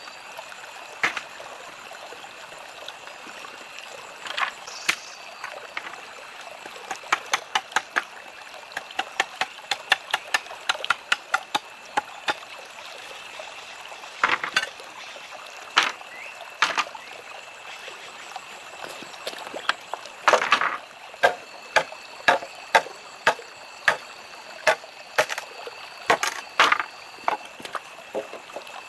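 Irregular sharp knocks and taps of hand work on wood, sometimes single and sometimes in quick runs of several a second, over a steady hiss with a thin high steady tone.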